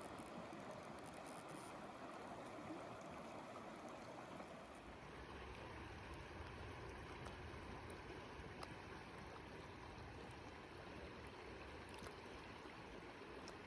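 Faint, steady rush and trickle of a flowing stream.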